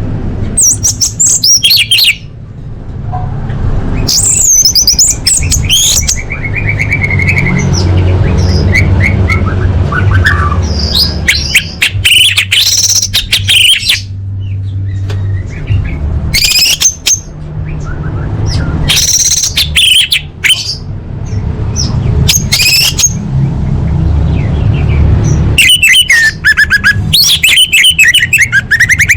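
Orange-headed thrush, sold as a female calling to males, giving repeated bursts of rapid high chirps and trills every one to three seconds over a steady low rumble. It is used as a lure call to get a silent male thrush singing.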